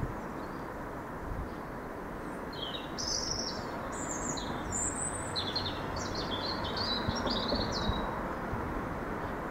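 Small songbird chirping in a quick run of calls from about three to eight seconds in, over the steady low rumble of a diesel locomotive approaching slowly.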